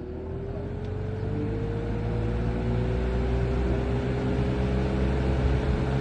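Lasko Cool Colors box fan starting up on its low setting: the motor hum and a whine rise in pitch and loudness over the first two seconds as the blades spin up, then settle into steady running with a rush of air.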